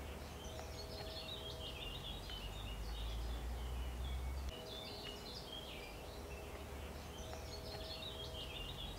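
Outdoor birdsong: a songbird singing quick chirping phrases in three bouts. Under it sits a low rumble and a faint steady hum, and the rumble eases about halfway through.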